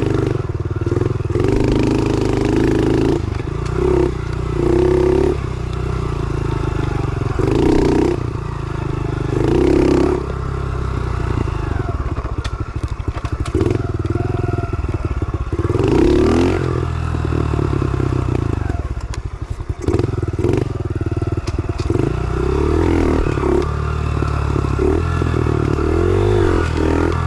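110cc pit bike's single-cylinder four-stroke engine being ridden, its revs rising and dropping over and over as the throttle is opened and closed.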